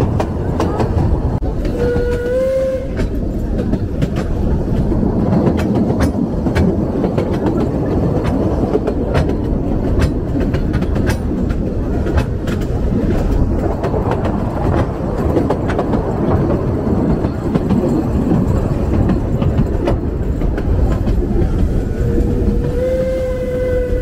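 Puffing Billy steam train running, heard from on board: a steady rumble of the carriages with the clickety-clack of wheels over the rail joints. A brief pitched tone sounds about two seconds in and again near the end.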